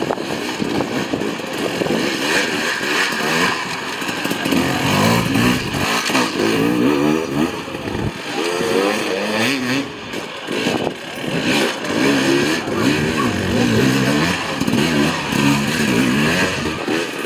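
Dirt bike engine revving up and down over and over, the pitch rising and falling in quick surges as the throttle is worked on and off.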